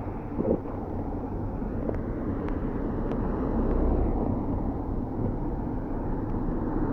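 A vehicle passing on the wet, flooded road: a rushing tyre-and-engine noise that swells gradually towards the middle and stays up.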